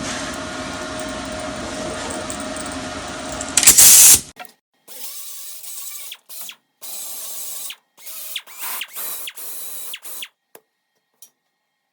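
MIG welder stitch-welding sheet-metal patches on a car's underside: crackling runs about a second long, several in a row with short silent gaps. Before them a steady machine whir runs for about three and a half seconds and ends in a short, loud hiss.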